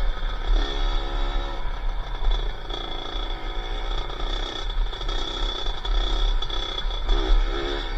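Kawasaki KX80 two-stroke single-cylinder engine in a Honda XLR80R, revving up and easing off in several short spells while riding off-road, with wind rumbling on the helmet microphone.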